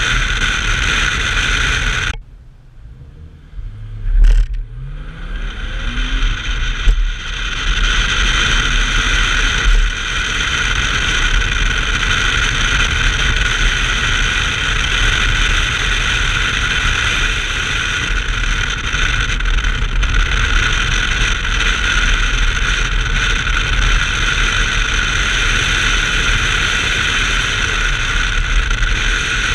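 Inside a 1990 BMW 325i with its straight-six engine running hard at speed, a steady loud drone of engine and wind. About two seconds in the sound drops away suddenly. About four seconds in there is a sharp hit, then the revs climb and the steady drone returns.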